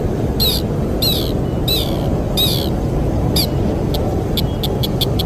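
A bird, the one called sintar, calling over a steady rush of wind: short falling notes about every two-thirds of a second, then from about four seconds in a fast run of short clipped notes, about six a second.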